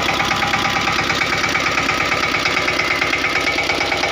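Single-cylinder diesel engine of a Mahindra Yuvraj 215 small tractor running steadily, with a fast, even pulse.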